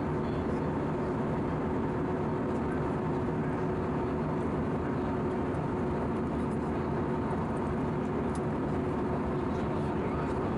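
Airbus A319 cabin noise in flight: a steady rush of airflow and engine noise with a steady hum running through it.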